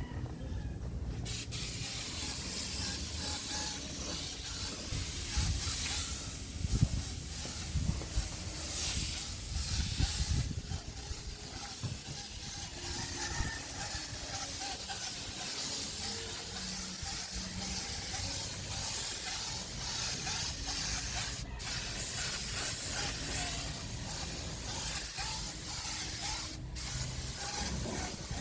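Compressed-air paint spray gun hissing steadily as a coat is sprayed, starting about a second in, with two short breaks in the spray in the second half.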